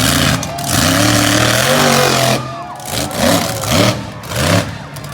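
Monster truck engine revving hard in repeated bursts, its pitch rising and falling as the throttle is blipped and released, with loud exhaust noise and brief sharp dips as the throttle closes.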